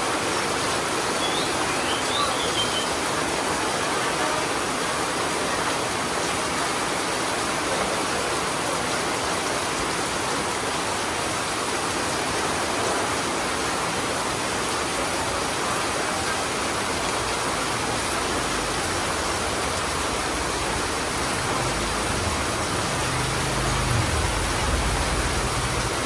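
Heavy rain pouring onto a wet concrete alley: a steady hiss. A few short high chirps sound about two seconds in, and a motorbike engine comes close in the last few seconds.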